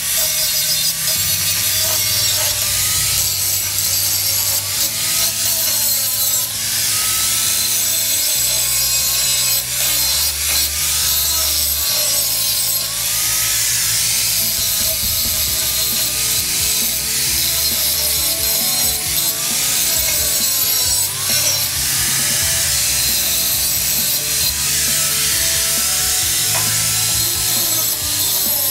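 A 4.5-inch angle grinder with a hard disc grinding steel on an auger shaft, its motor whine wavering in pitch over a steady, hissing grind. It is grinding out the old weld and rust on the broken shank.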